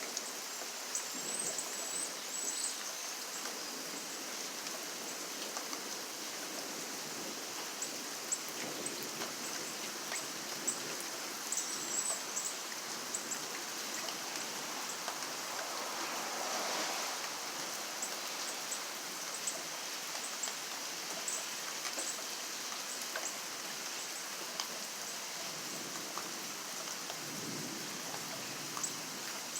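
Steady rain falling, a constant hiss with many small drops ticking through it. It swells briefly about halfway through.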